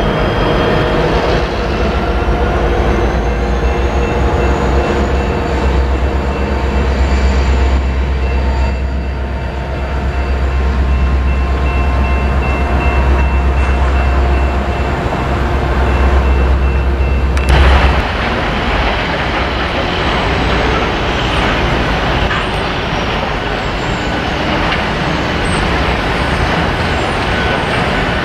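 A train passing close by: diesel locomotive engines running with a deep, steady rumble, which drops away abruptly about two-thirds of the way through. After that, the rolling noise of the railcars' wheels on the rails continues steadily.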